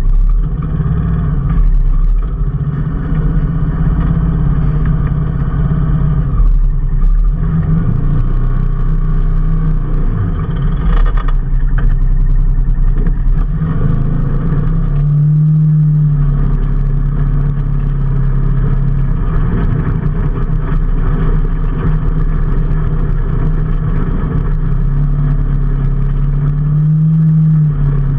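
A motor vehicle's engine running steadily under way with a low rumble, its pitch rising briefly twice, about halfway through and near the end.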